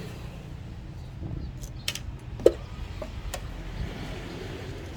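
A handful of sharp small clicks and taps over a steady low background rumble; the loudest, about two and a half seconds in, rings briefly.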